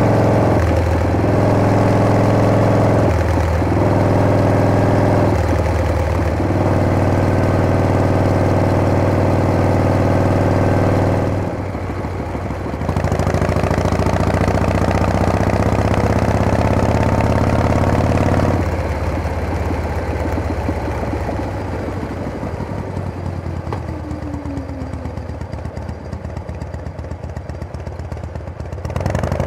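Harley-Davidson Panhead V-twin chopper being ridden, its engine pulling steadily with three brief dips in the first few seconds and a short drop about twelve seconds in. In the last third it runs quieter, with the engine note falling as the bike slows.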